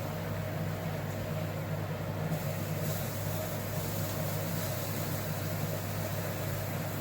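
Steady low machine hum that keeps an even level and never changes.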